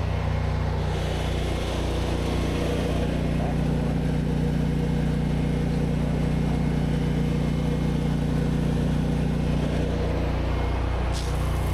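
Gas engine of an 8 GPM pressure washer rig running at a steady speed, with an even low hum throughout and a short high hiss near the end.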